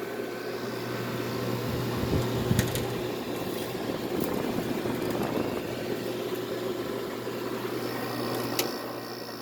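Hampton Bay 5000 BTU window air conditioner running with its LG compressor and fan: a steady hum with a low tone under the rush of the blower's air, and a couple of short knocks about two seconds in. The compressor doesn't sound happy to the owner.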